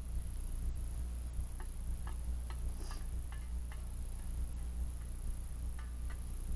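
Small wood fire burning in a metal fire pit: faint, scattered crackles and ticks over a steady low rumble.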